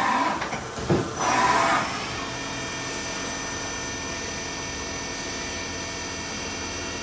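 Colchester Tornado CNC lathe: a knock and a few short bursts, then from about a second in it runs steadily with a hiss and several steady whining tones.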